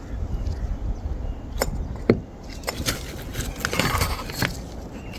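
Small metal clinks and knocks as turbocharger parts are handled, with one sharp clink about two seconds in, then a stretch of rattling and rustling.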